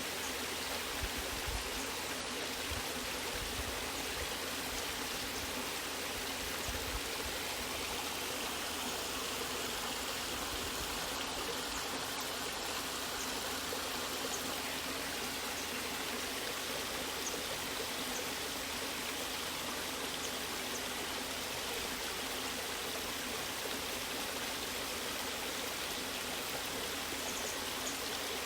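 Natural waterfall: water falling and rushing in a steady, unbroken hiss.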